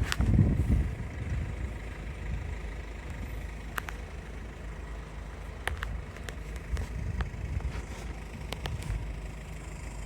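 Vehicle engine running with a low rumble. It swells loudest in the first second, then settles to a steady level, with a few scattered light clicks over it.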